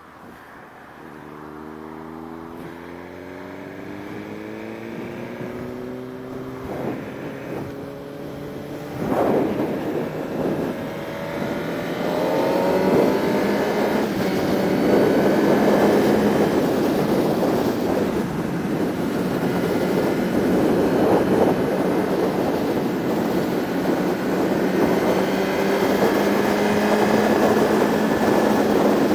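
Sport bike engine accelerating, its pitch climbing through the gears, then running at a steady speed under rising wind rush on the microphone.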